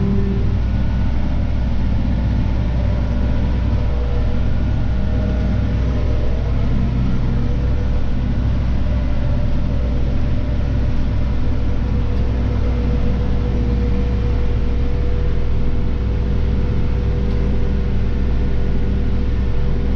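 Claas Arion 530 tractor's diesel engine running steadily under load during mowing, a constant low rumble with a steady whine over it, heard from the driver's seat.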